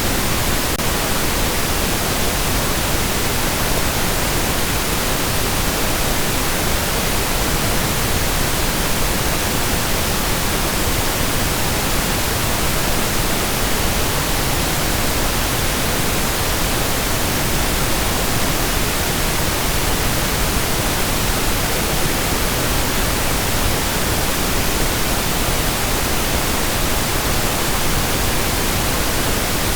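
Steady pink noise: an even, unbroken hiss spread across all pitches at a constant level, with no voice or music.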